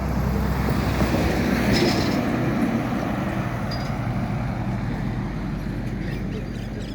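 Road traffic going by: a vehicle's noise swells to its loudest about two seconds in, then slowly fades away.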